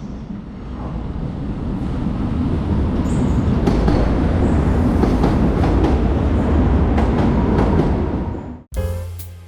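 Train running on rails: a heavy low rumble that builds up over the first two seconds, with repeated knocks and clicks of the wheels, then cut off abruptly near the end as piano music begins.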